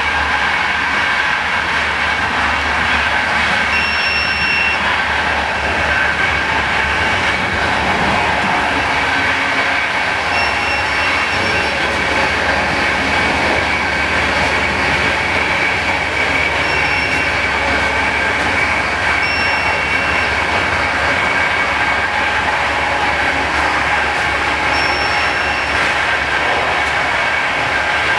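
Steady running noise of a moving passenger train, heard inside a type 156A first-class coach, with a short, high-pitched tone of about a second now and then.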